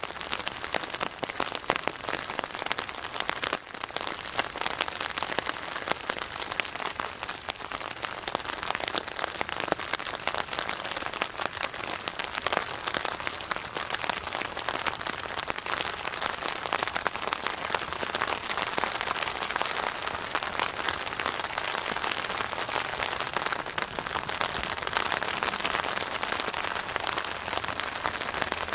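Steady rain falling on a hammock rain tarp overhead: a dense, even spatter of drops that gets somewhat louder over the second half.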